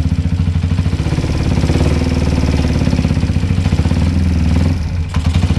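Air-cooled motorcycle engine running steadily near idle with a fast, even pulse. The owner brought it in because the engine has become noisy.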